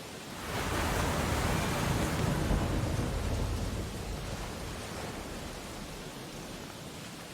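Ocean wave breaking on the shore: a surge of surf noise builds about half a second in, is loudest for a couple of seconds, then washes out slowly into a steady hiss.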